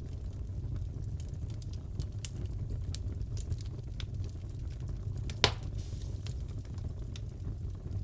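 Wood fire crackling in a fireplace: a steady low rumble with scattered small crackles, and one sharp, louder pop about five and a half seconds in.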